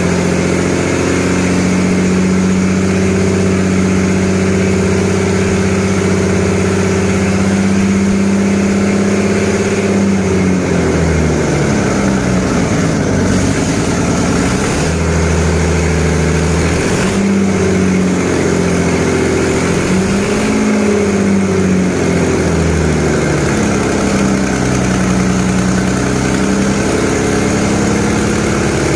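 Detroit Diesel 6-71 two-stroke inline-six diesel running steadily, its engine speed rising and falling between about ten and twenty-two seconds in before settling back to a steady run.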